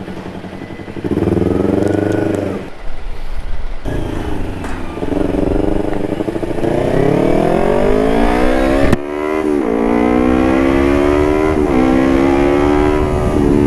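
Motorcycle engine through an aftermarket carbon Puresound exhaust, revved briefly and then accelerating: the pitch climbs steadily, drops at a gear change about nine seconds in, climbs again and drops once more near the end.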